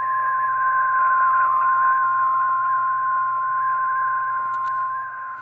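NOAA Weather Radio warning alarm tone: one steady, loud high-pitched tone from a weather radio, the alert sounded ahead of a newly issued warning.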